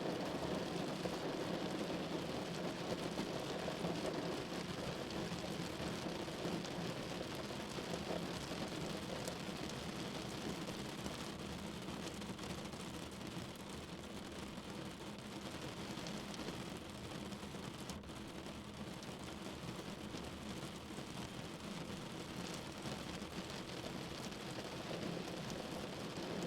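Steady rain falling, an even hiss without distinct events.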